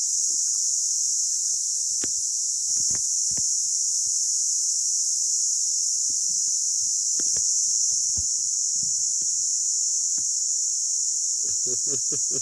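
A steady high-pitched hiss, with scattered short clicks and faint low handling sounds. A brief voice-like sound comes near the end.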